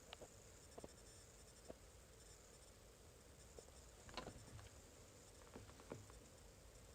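Near silence: faint room tone with a few soft, scattered clicks and taps, the strongest about four seconds in.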